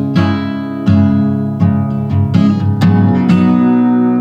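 Acoustic guitar strumming the closing chords of a song, the last chord left ringing and slowly fading.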